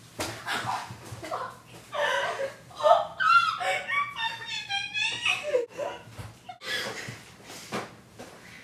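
Girls laughing and giggling in bursts, loudest and highest-pitched a few seconds in.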